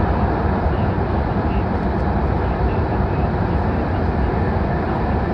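Steady, loud running rumble of an H5-series Shinkansen train travelling at speed through a tunnel.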